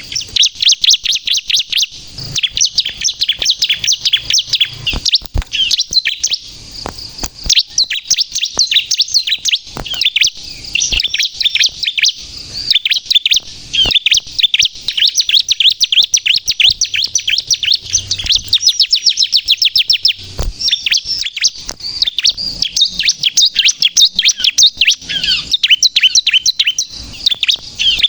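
Bar-winged prinia (ciblek kristal) singing a rapid, almost unbroken run of high chirps and short trills, with only brief gaps. It is a bird in full, persistent song (gacor).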